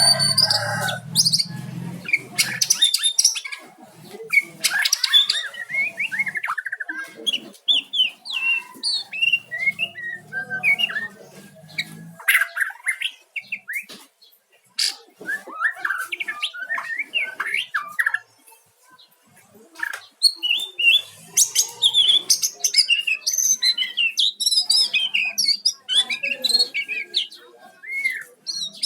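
White-rumped shama (murai batu) singing a fast, varied run of short whistles and chirps, with brief pauses between phrases. A lower sound, typical of a rooster crowing, trails off in the first couple of seconds.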